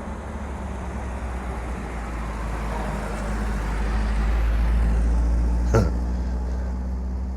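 A car driving slowly past with a deep engine rumble, growing louder to about five seconds in and then easing off. A short sharp click sounds near the end.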